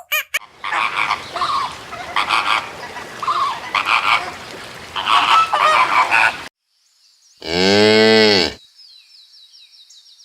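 Geese honking in a noisy overlapping clamour for about six seconds. After a short gap comes a single loud moo from a cow, lasting about a second, followed by a thin, high, steady tone.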